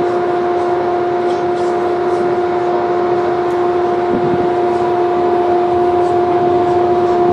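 A steady machine hum holding one constant pitch, over a loud rushing noise.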